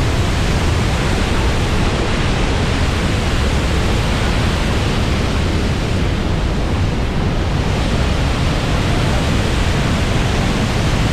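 Niagara Falls, a huge volume of water plunging, heard as a loud, steady roar heaviest in the low end.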